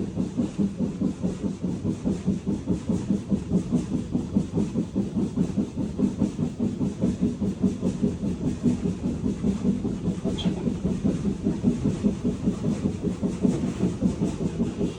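Steam train hauled by BR Standard Class 4 tank engine 80151 running, a steady low rumble with fast, even pulsing. A brief high squeal sounds about ten seconds in.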